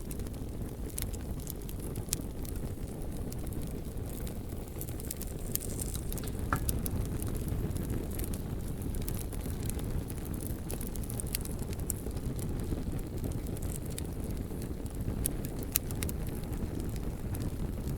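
Campfire burning, with scattered sharp crackles and pops over a steady low rumble, and a brief high whistle from the burning wood about six seconds in.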